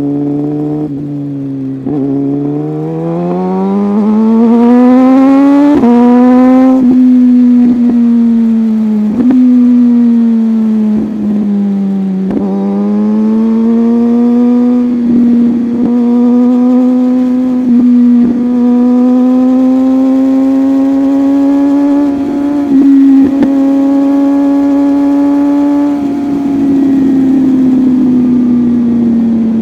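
Suzuki GSX-R1000R's inline-four engine under way. The revs climb hard for about six seconds and drop sharply at a gear change, dip and build again around twelve seconds, then hold at a steady cruise before easing off near the end.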